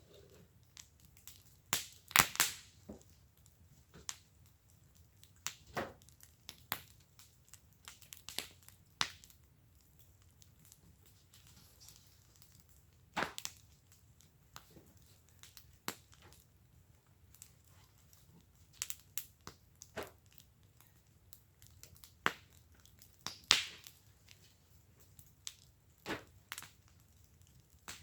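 Wood fire in a fire pit crackling, with irregular sharp pops and snaps of burning wood, some much louder than others, over a faint steady hiss.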